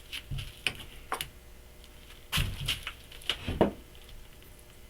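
Irregular sharp knocks and clinks of metal parts during removal of the worn outer race of a truck's front outer wheel bearing, about seven in all, the loudest a little past the middle and near the end.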